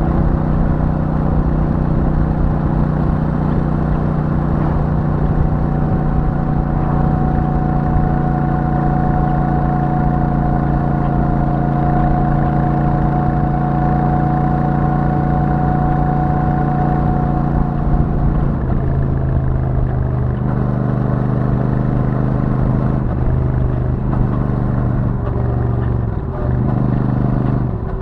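Royal Enfield Super Meteor 650's parallel-twin engine and stock exhaust running steadily at cruising speed. About two-thirds of the way through, the engine note drops lower, and there are a couple of brief dips near the end.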